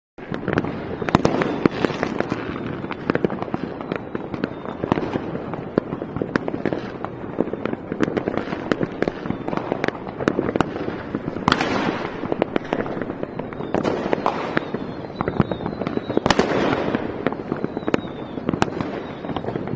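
Fireworks display going off continuously: many overlapping bangs and crackles one after another, with louder clusters of bursts about a third of the way in and again past the middle.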